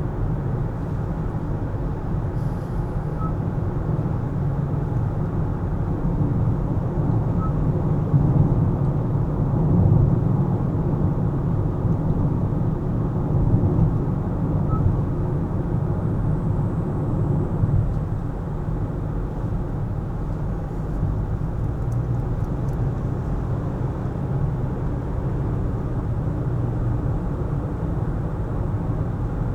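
Steady low rumble of a car driving on city roads: engine and tyre noise, swelling a little about a third of the way in.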